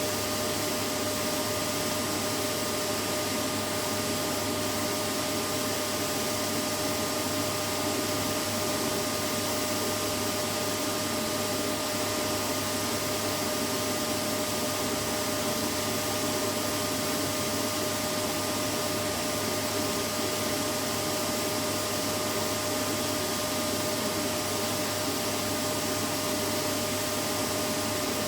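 Vacuum cleaner running steadily: a constant rushing noise with a steady motor hum and no change in pitch or level.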